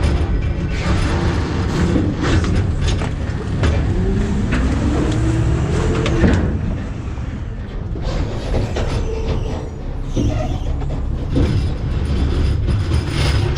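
McNeilus ZR rear-loader garbage truck compacting trash in its hopper: the truck's diesel and hydraulic packer run under load with a steady rumble, while the trash cracks and crunches. A rising whine builds from about four to six seconds in and ends in a sharp bang.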